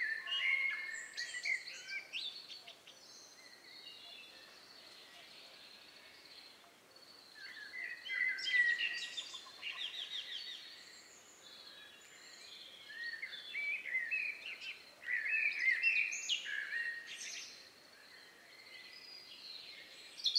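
A songbird singing in three bouts of quick, varied high phrases, with quieter pauses between them.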